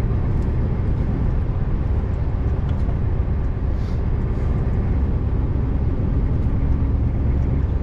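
Scania R590 V8 diesel engine running steadily with a low rumble while the empty truck drives along, heard from inside the cab.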